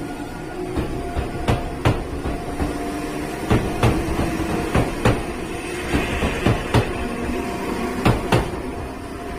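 Train rolling slowly through the station yard, its wheels knocking irregularly over rail joints and points, over a steady low hum.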